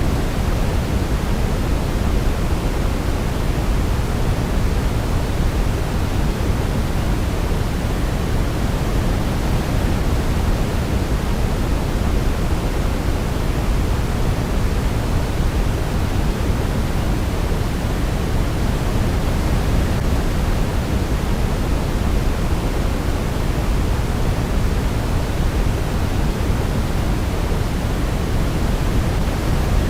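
Steady white noise for baby sleep: an even, unbroken shush weighted toward the low end, with no melody to be heard.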